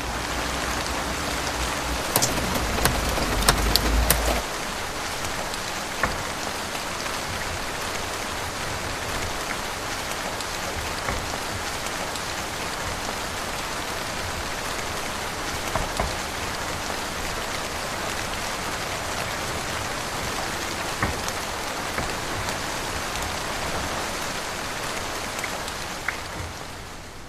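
Steady rain, a dense hiss with individual drops ticking sharply on a hard surface. A low rumble and a cluster of louder drop hits come in the first four seconds, and the rain sound fades down near the end.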